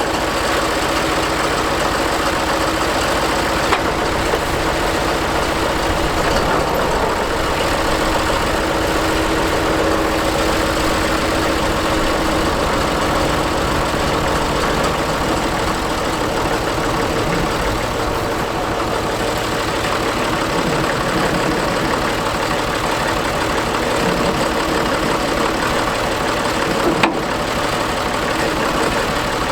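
Oliver tractor's engine running steadily at idle.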